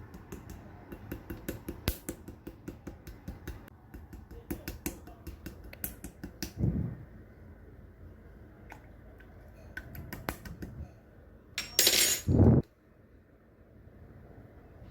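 Clear slime being handled close up, making rapid sharp clicks and pops for the first six seconds or so, then only scattered clicks. A louder noisy squish lasting about a second comes near the end.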